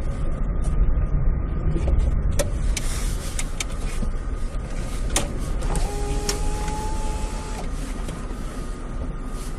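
Steady low rumble of a car driving, with scattered clicks and a brief steady tone about six seconds in.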